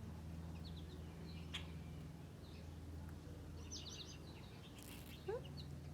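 Small songbirds chirping in short, scattered clusters of high notes over a steady low hum, with one brief rising note near the end.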